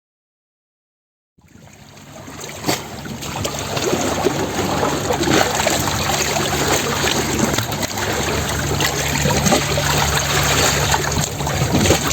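Water trickling and sloshing, fading in over the first couple of seconds, with a steady low hum underneath and one sharp click early on. It cuts off abruptly at the end.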